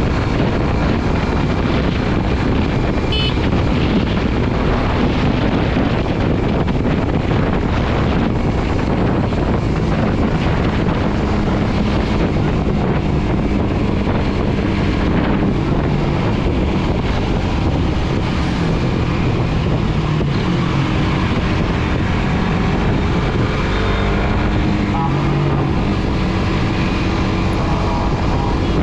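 Suzuki GSX-R150's single-cylinder engine running under way, its pitch shifting up and down with the throttle, under heavy wind noise on the microphone.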